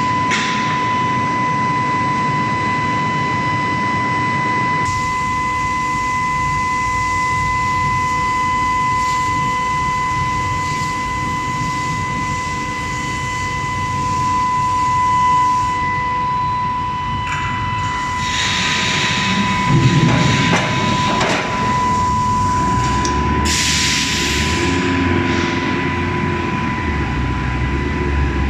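Round-bar billet heating furnace line running, with a steady high-pitched whine over a low machinery rumble. Two bursts of hiss come in the second half.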